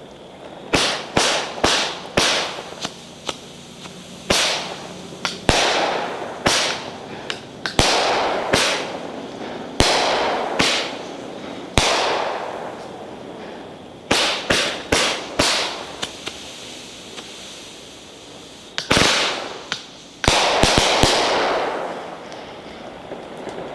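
A 500-gram, 20-shot consumer firework cake firing its shots in an irregular sequence, some singly and some in quick clusters; each is a sharp bang followed by a fading tail.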